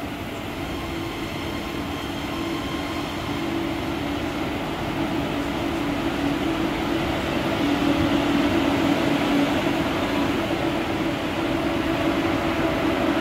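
ERL electric train pulling into the station platform: a steady motor hum over the rumble of its wheels, growing louder as it draws in alongside, then cutting off suddenly near the end.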